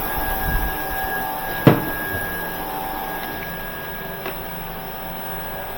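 Steady machine hum with faint steady tones, some light handling noise near the start, and one sharp click about a second and a half in.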